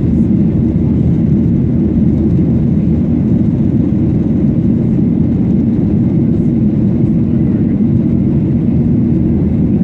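Steady low rumble of a Boeing 737-800's CFM56 jet engines and airflow, heard inside the economy cabin, holding an even level.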